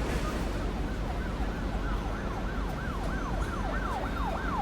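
An emergency vehicle siren sounding in a fast up-and-down yelp, about two to three sweeps a second, growing louder toward the end, over a steady low rumble of street noise.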